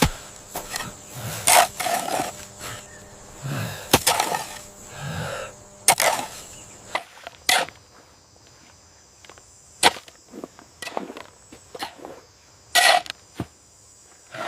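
Irregular knocks, taps and short scrapes of hand building work, with wood being handled and struck. The bursts come a second or two apart, quieter for a stretch past the middle.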